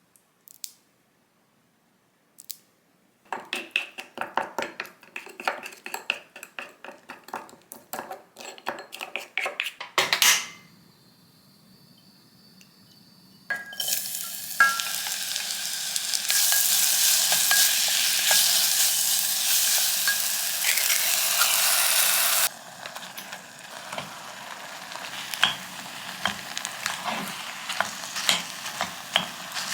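Kitchen cooking sounds: a utensil clinking rapidly against a bowl, ending in a sharp knock, then after a quiet pause food starts sizzling loudly in a hot pan, easing to a softer sizzle with light utensil taps later on.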